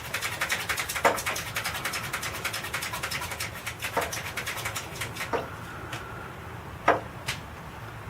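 A bird beating against window glass: a fast run of light taps, about ten a second, for the first five seconds or so, then several louder single knocks.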